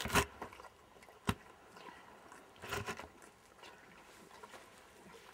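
A horse close by: two sharp knocks, then a short breathy snort from its nostrils about three seconds in.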